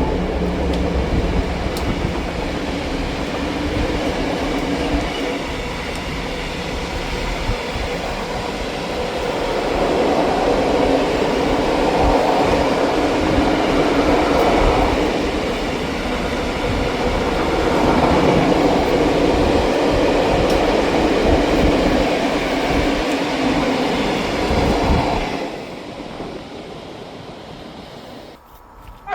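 A train passing close by: a loud, steady rumble of wheels on the rails that falls away sharply about 25 seconds in.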